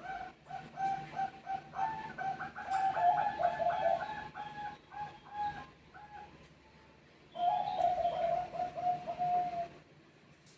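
Zebra doves (Bangkok perkutut) cooing, more than one bird calling over each other in answer. A fast run of short repeated coos lasts about six seconds; after a short pause comes one longer, rolling coo, and then the birds fall quiet.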